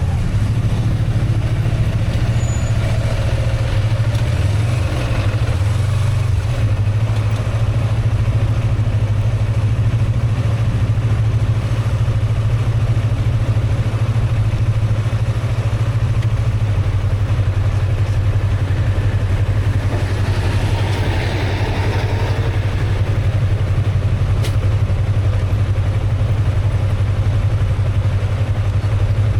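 Motorcycle engine running at a steady, unchanging speed, heard from on the bike. About twenty seconds in, a brief swell of higher noise rises and fades over it.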